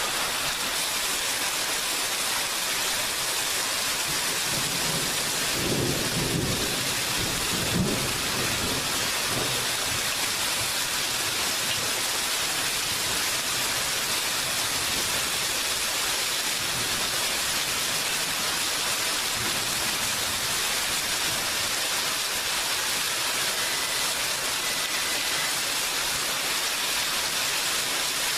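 Steady rain falling, with a low rumble of thunder that rolls in about four seconds in and fades out a few seconds later.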